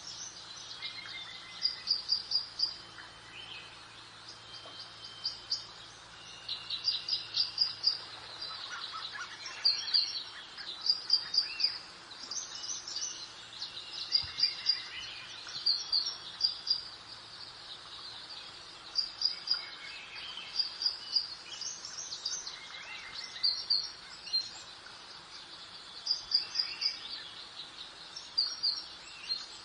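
Garden birdsong: several birds chirping. One repeats a short burst of high, quick notes every second or two, over a soft steady hiss.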